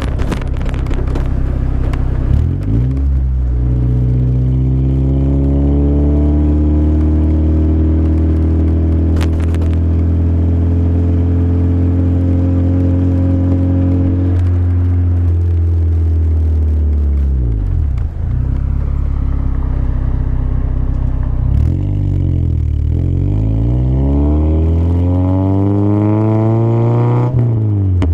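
Toyota Corolla's 1.8-litre 7A-FE four-cylinder engine running through aftermarket headers and a Magnaflow exhaust, under way. It holds a steady drone for about ten seconds, falls in pitch around the middle, then dips and climbs again twice as the revs rise and drop near the end.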